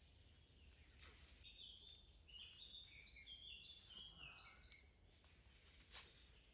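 Faint birdsong: a small bird sings a quick run of short whistled notes that hop up and down in pitch for about three seconds. A single sharp click near the end.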